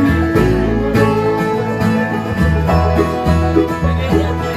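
Live country band playing an instrumental break, with acoustic guitar, banjo and a steady bass beat.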